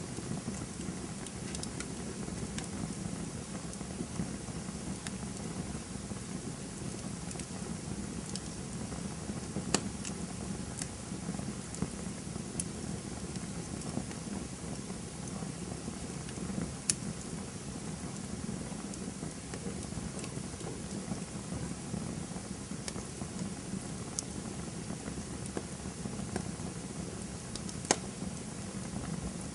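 Campfire burning with a steady low rush of flames and scattered sharp crackles and pops of burning wood, a few louder pops standing out.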